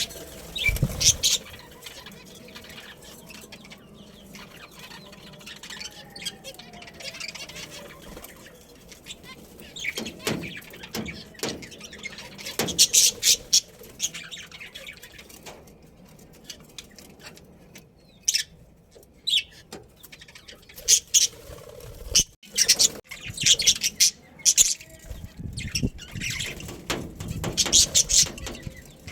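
Budgerigars chirping and chattering in bursts of quick, high-pitched calls, with quieter stretches between.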